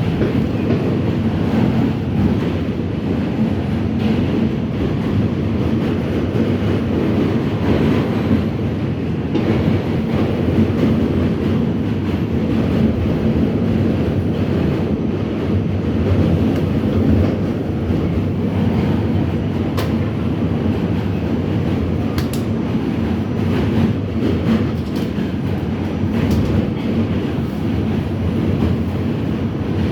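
New York City Subway R68 train running on the rails: a steady rumble of wheels and car, with a few faint clicks in the second half.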